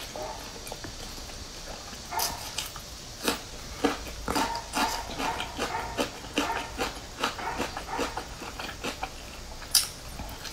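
Close-miked eating sounds: chewing and wet lip-smacking on a large meat-filled flatbread, irregular clicks and smacks, with one sharp, loud click near the end.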